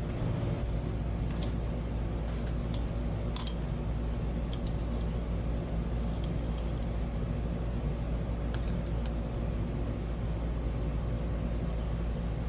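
Sparse small metallic clicks and ticks from a screwdriver turning a hose clamp tight on a hose, over a steady low background hum.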